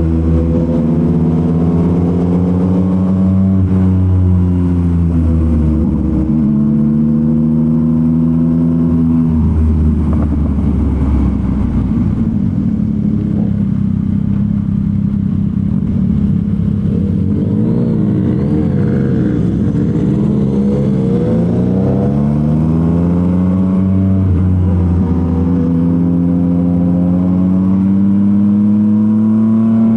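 Yamaha MT-09's 890 cc inline-three engine running through a Revoc SP full aftermarket exhaust while riding. The pitch rises under acceleration and drops at each gear change, several times over.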